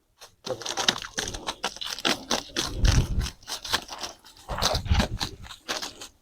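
A mass of small dried bijili crackers being shaken and poured loose, a dense crunching and rattling of many little paper crackers, with two heavier thumps about three and five seconds in.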